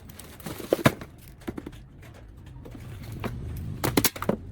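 Several sharp knocks and clatters over a low steady hum, the loudest a cluster near the end and another about a second in.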